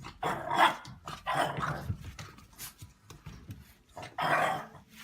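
A dog barking: a few separate barks with pauses between them.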